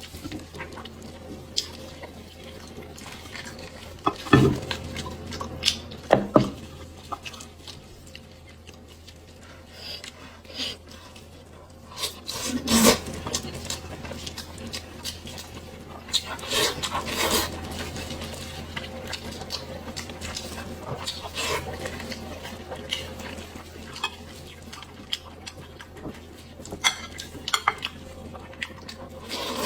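Close-miked eating sounds of pig's head meat being chewed, with scattered sharp clicks and smacks, loudest at about 4 and 6 seconds, around 13 seconds and 17 seconds in; a low steady hum runs underneath.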